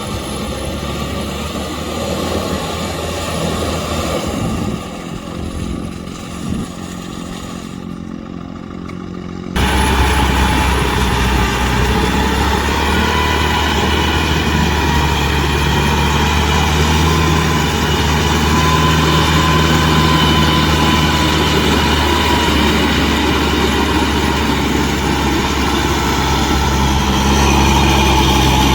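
Kubota M6040SU tractor's diesel engine running steadily as it works a rotavator. About a third of the way in the sound changes abruptly to a louder, steadier engine note.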